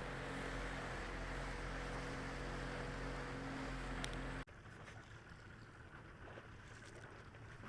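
Boat motor running steadily under wind and water noise. A little over halfway it cuts off abruptly, leaving quieter wind and water noise.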